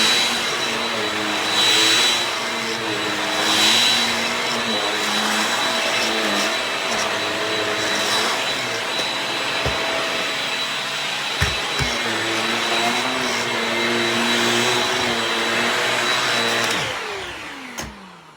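Shark Rocket stick vacuum running, with a steady motor whine whose pitch shifts as the load changes and swells of rushing air in the first few seconds. A few sharp knocks come in the middle, then the vacuum is switched off about seventeen seconds in and its motor winds down with a falling pitch.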